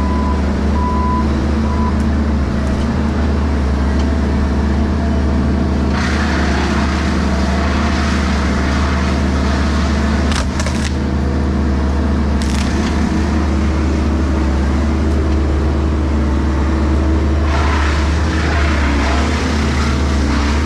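Bobcat E60 mini excavator's diesel engine running steadily, with a few short beeps at the start. From about six seconds in, a louder rushing noise sets in as the machine works the tree, with a couple of sharp cracks of wood breaking, before it eases off near the end.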